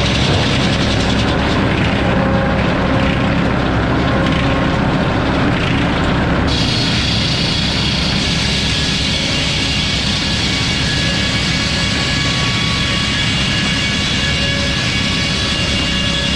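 Sawmill running steadily with a loud, even mechanical drone; about six and a half seconds in, a higher-pitched whine suddenly joins it and holds.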